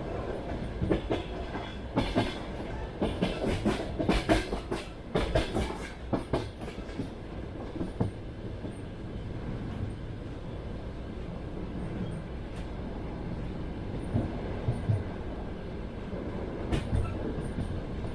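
Passenger train wheels clattering over rail joints: a run of sharp clacks a couple of seconds in, then a steady rolling rumble of the carriage, with a few more clacks near the end.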